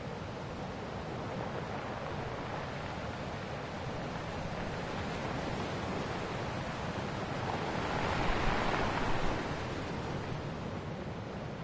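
Ocean surf washing onto a shore, a steady rush of waves, with one wave swelling louder about eight seconds in and then easing off.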